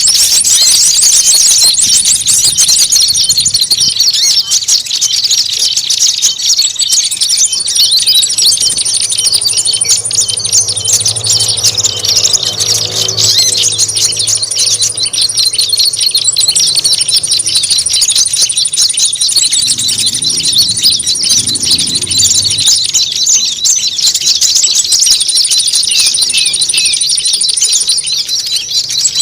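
Bird-lure recording of small songbirds calling noisily, as in a fight: many high, squeaky chirps overlap without a break, and a thin high trill starts and stops several times. A faint low hum sits under the middle of it.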